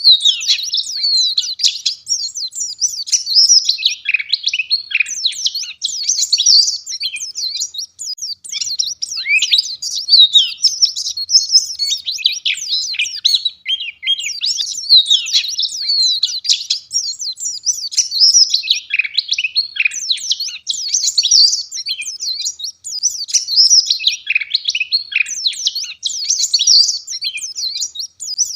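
White-eye (pleci) singing a fast, dense run of high twittering chirps and trills with hardly a pause.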